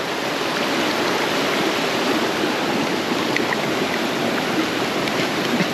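Steady rush of water from a small jungle waterfall and its stream.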